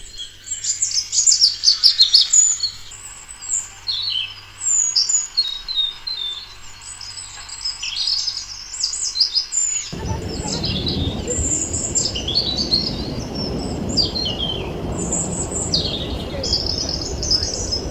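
Small birds chirping and singing, with many quick overlapping calls, loudest in the first few seconds. About ten seconds in, a steady low background rumble suddenly sets in beneath the birdsong.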